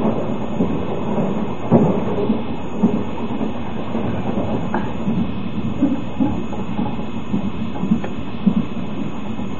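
Passenger coach of a moving train heard from inside: a steady rumble of the running gear, with the clickety-clack of the wheels crossing rail joints coming as short, irregular knocks, often in pairs.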